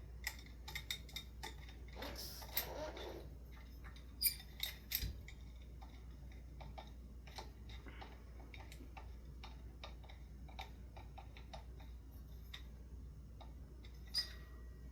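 Scattered light clicks and taps of screws and metal fan parts being handled, with a few louder knocks and a brief rustle.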